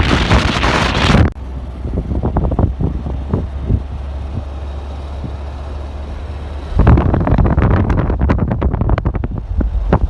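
Wind buffeting the microphone, easing about a second in to a steady low rumble, then gusting loudly again near seven seconds in.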